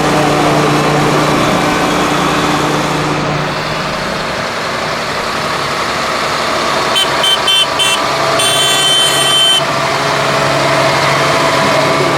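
Large farm tractor's diesel engine running steadily. About seven seconds in, a horn gives three short toots and then a longer blast.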